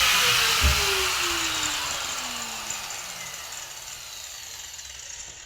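Washing machine, fitted with new drum bearings, winding down from a spin: a rushing noise fades away while the motor's hum falls steadily in pitch. There is one knock about a second in.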